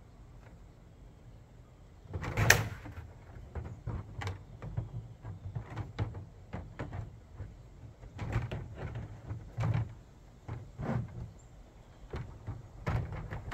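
Plastic panels of a Rubbermaid deck box being handled and fitted together during assembly: a string of knocks and clunks, the loudest about two and a half seconds in.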